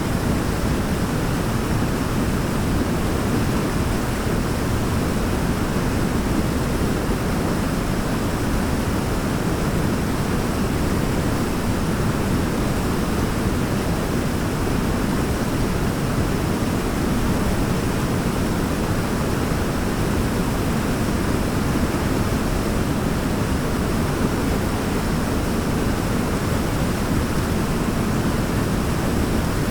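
Waterfall: a steady, unbroken rush of falling water, heaviest in the low range, with no change in level.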